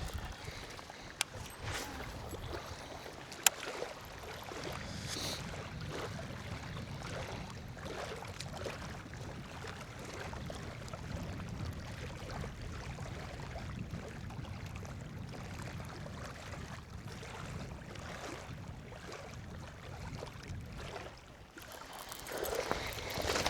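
Wind buffeting the microphone in a steady low rumble, with two sharp clicks in the first few seconds.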